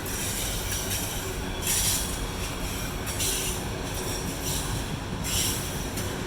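Freight train of autorack cars rolling past, a steady low rumble of wheels on rail with four short bursts of high wheel squeal or hiss, a second or so apart, after the first couple of seconds.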